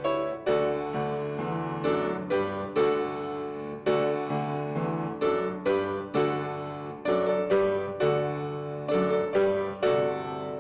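Piano playing a postlude, chords and melody struck at a moderate pace, each note fading.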